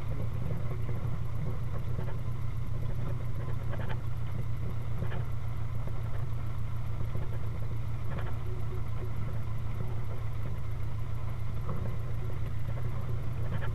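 Four-cylinder engine of a 1931 Ford Model A speedster running steadily as the car drives along, a constant low drone with no change in pitch and a few faint clicks.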